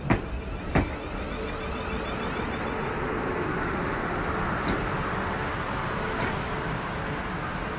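South West Trains class 450 Siemens Desiro electric multiple unit pulling slowly into the platform. Its wheels clack sharply over rail joints twice near the start and a few times more faintly later, over a steady rumble of wheels on rail with a faint steady hum from the traction equipment.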